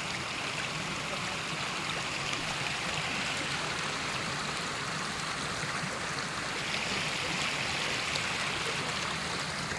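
Water from heavy rain rushing steadily along a newly formed stream, an even rushing that swells slightly about seven seconds in.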